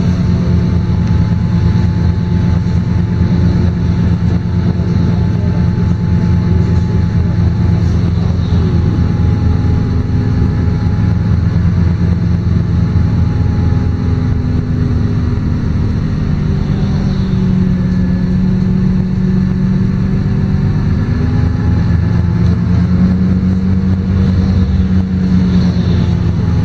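Diesel engine of a LiAZ-5292.22-77 city bus running steadily while the bus drives, its note drifting gently up and down.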